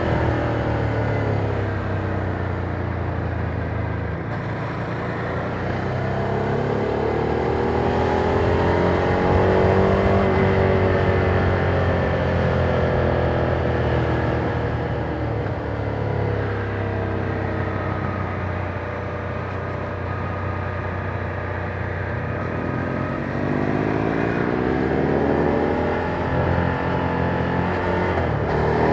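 Ducati Monster 797's air-cooled V-twin running through its stock exhaust, heard from on board the moving bike. The engine note rises and falls several times as the rider accelerates and rolls off, with a steady low rumble underneath.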